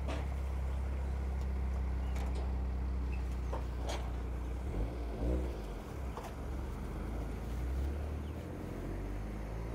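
Toyota GR Corolla's turbocharged three-cylinder engine running steadily at low revs, its note wavering briefly about halfway through. A few sharp knocks come over it.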